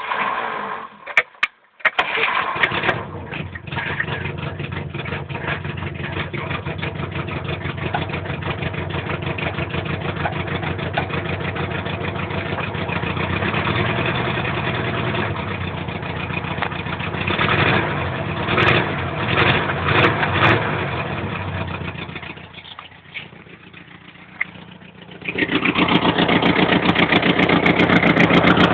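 Vehicle engine cranked and catching about two seconds in, then running with rises in revs. It sags low for a few seconds near the end before picking up again and running louder. The owner says this engine answers a start with knocking and whistling.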